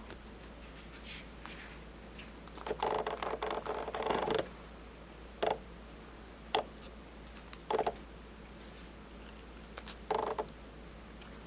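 Close-up scraping of a utensil working through grated fresh wasabi paste: a longer stretch of dense scraping a few seconds in, then four short separate scrapes spread over the rest.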